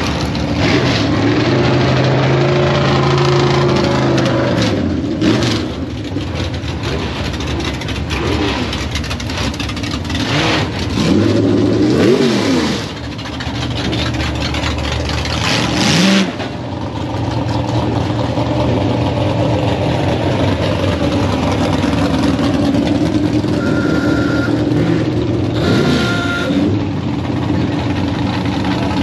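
Car engines running at low speed, with the revs rising and falling a couple of times. There are a few short sharp knocks, and two short high beeps near the end.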